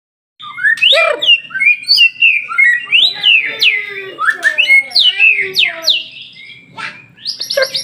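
White-rumped shama (murai batu) singing a loud, varied song of rapid whistled notes sweeping up and down, starting about half a second in. It pauses briefly near the end, then breaks into a fast trill.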